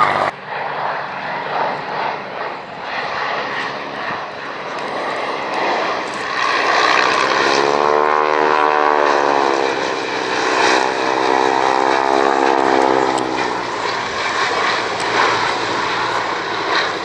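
Propeller-driven aircraft flying a display pass. Its engine note swells between about seven and thirteen seconds in and bends in pitch as it goes by, over a steady rushing noise.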